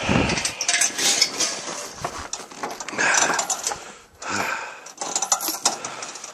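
Irregular metallic clinks and scrapes of a snow-drifted metal gate and its latch being worked, the gate frozen almost shut.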